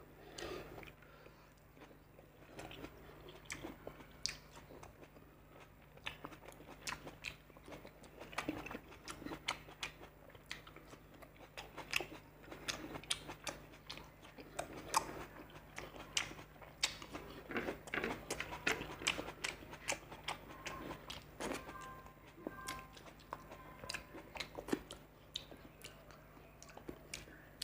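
Close-miked biting and chewing of raw salad (tomato slices and green chilli) eaten by hand. It is heard as a steady stream of irregular crunches and mouth clicks.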